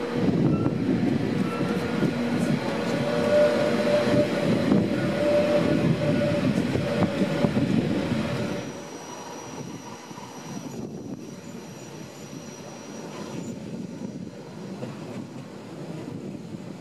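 Matterhorn Gotthard Bahn metre-gauge train running through a tunnel: a loud, dense rumble of wheels on rail with a steady whine over it. About eight and a half seconds in it drops suddenly to a much quieter, even running noise.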